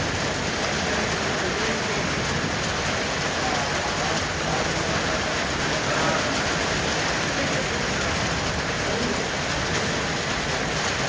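Heavy rain falling in a steady downpour, drumming on hard surfaces.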